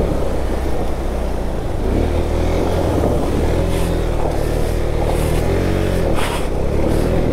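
KTM motorcycle engine running with the throttle rising and falling as the bike rides through a shallow, stony water crossing, with water splashing around it.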